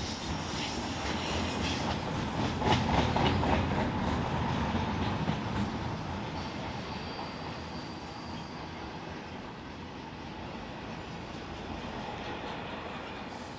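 Norfolk Southern freight train rolling past, its wheels clicking over rail joints, loudest a few seconds in and then easing off, with a faint high wheel squeal.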